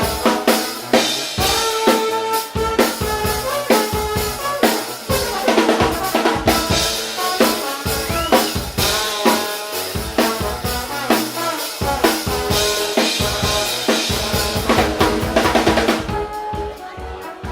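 Live brass band with a drum kit playing a driving rock beat, with kick, snare and rimshot hits under held horn notes. The sound thins out and gets a little quieter near the end.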